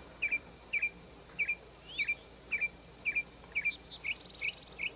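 A songbird calling a short, sharp chirp over and over, about twice a second and very evenly spaced. A faint buzzy trill comes in higher up near the end.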